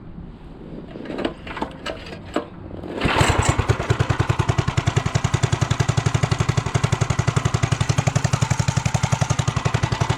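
Minibike's 212 Ghost single-cylinder engine running: a low pulsing with a few clicks, then about three seconds in it comes up suddenly to a louder, fast, even pulsing run.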